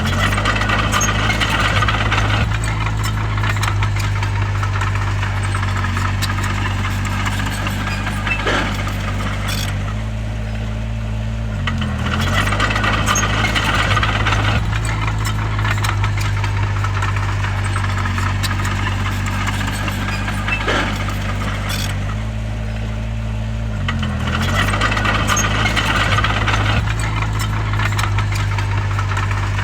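Crawler bulldozer's diesel engine running steadily under work. About every twelve seconds, three times, the engine speed dips briefly and is followed by a couple of seconds of rattling clatter, as in a push-and-reverse working cycle.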